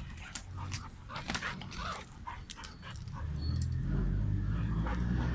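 Dog scuffling with a rooster: quick clicks and rustles, then a low rumble that grows louder about three seconds in.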